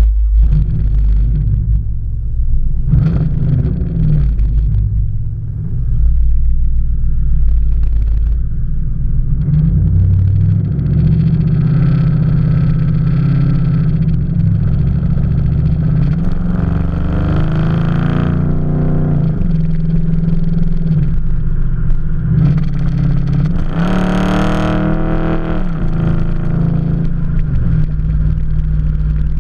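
Dodge Charger SRT's V8 through a loud zoomie-style exhaust, coming in with a sudden loud burst, revved in a few short blips, then running as the car drives, its pitch climbing under acceleration. Late on there is one sharp rev up and back down.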